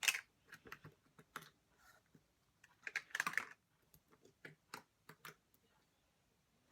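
Slime being squished and pressed by hand, making irregular sticky clicks and pops, with a denser run of crackling about three seconds in; the sounds stop over a second before the end.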